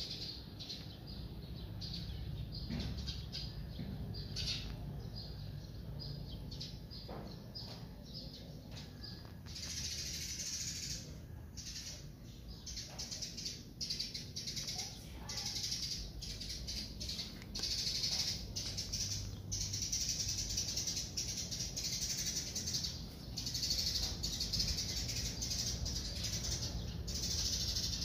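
Small birds chirping and twittering, with short high chirps at first that thicken into a dense, continuous chorus about ten seconds in.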